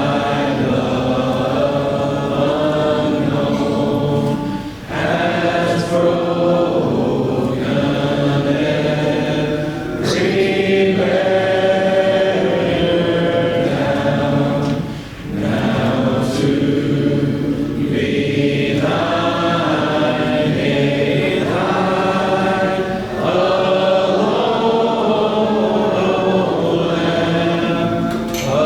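Church congregation singing a hymn together, unaccompanied, in long held phrases with brief dips between them.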